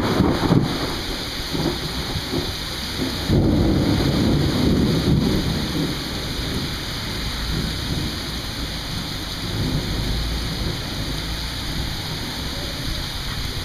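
Rolling thunder over steady rain. There is a sharp peak right at the start, and a second, louder rumble comes about three and a half seconds in and fades over a few seconds, with the hiss of rain throughout.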